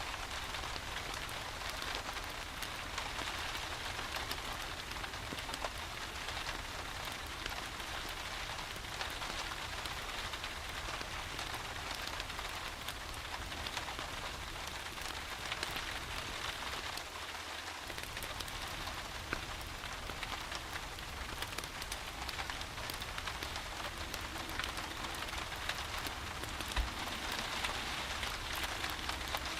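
Steady rain falling, mixed with the scattered small crackles of a wood fire in a fireplace. One soft low bump near the end.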